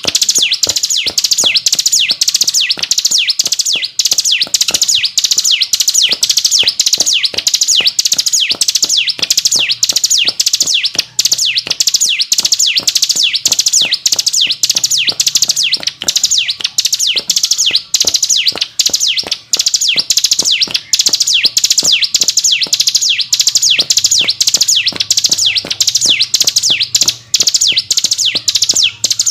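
Ciblek gunung, a prinia, singing a fast, continuous run of high notes, each sliding down in pitch, about two or three a second. This is the unbroken 'ngebren' drilling song of a bird in full song (gacor).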